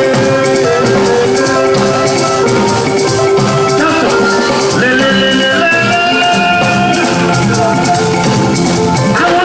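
Live band playing Latin-style music: held melodic notes over busy drums and shaken percussion.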